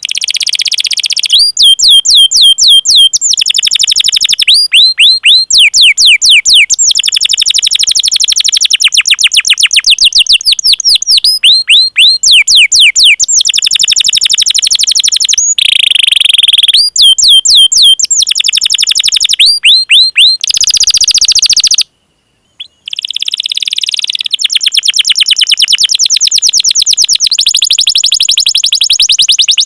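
Domestic canary in full song: long runs of rapid, high-pitched repeated chirps ('cuit cuit') and rolling trills, delivered almost without pause. The song breaks off for about a second about two-thirds of the way through.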